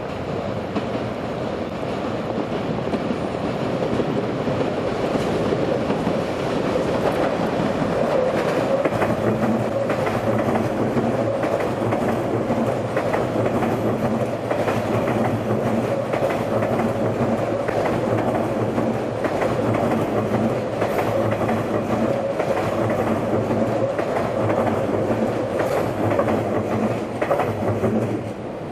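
A train running past on the rails, its wheels clattering in a regular rhythm over the rail joints. The rhythm sets in about a third of the way through.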